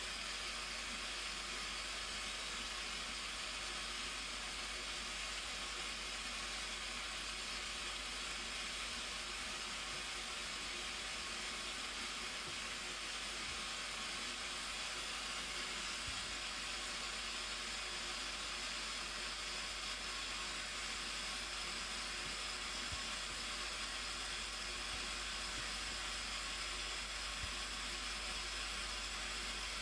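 Steady rushing of the Blue Nile Falls: an even, unbroken hiss of falling water.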